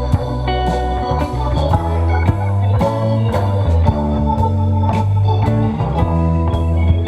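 Live band playing an instrumental passage: guitar lead over organ, with a bass guitar holding low notes and drums keeping a steady beat.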